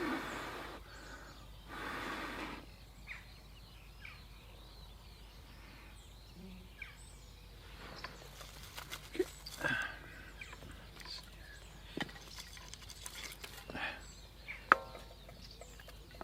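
Two long breaths blown into a smouldering tinder bundle to bring the flint-and-steel ember to flame. Scattered sharp clicks and snaps of small dry twigs and kindling follow from about halfway in. Faint bird chirps sound in the background.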